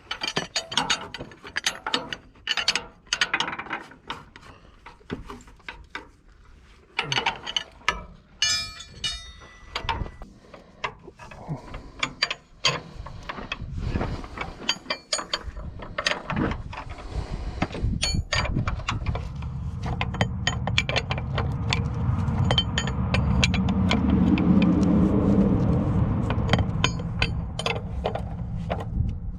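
Ratchet wrench clicking and metal tools clinking on bolts, in short irregular bursts. About two-thirds of the way through, a steady mechanical noise starts, grows louder and keeps going.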